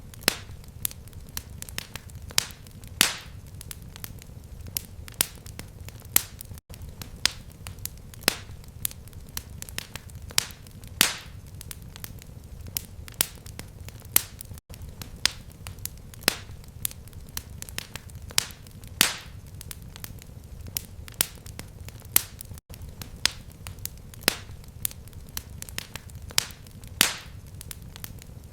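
Fireplace fire crackling, with irregular sharp pops of varying loudness over a low, steady rumble. There is a brief dropout roughly every eight seconds.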